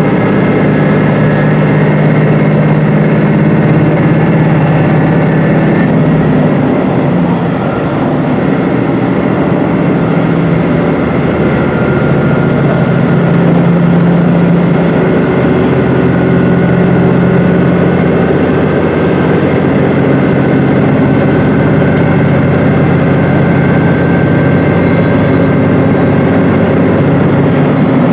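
Cabin running noise of a HOT7000-series diesel railcar under way: a steady diesel engine drone with the rumble of wheels on the rails.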